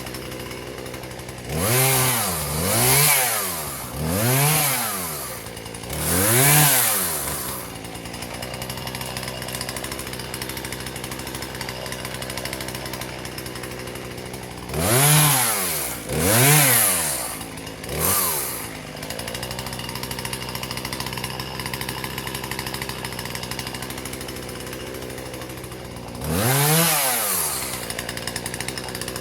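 Husqvarna 120 two-stroke chainsaw idling, revved up in short bursts that rise and fall back to idle: four quick revs near the start, three more midway and one near the end.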